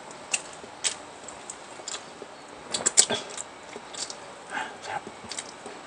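Close-miked eating sounds: chewing and wet smacking of the mouth with scattered sharp clicks, busiest about halfway through.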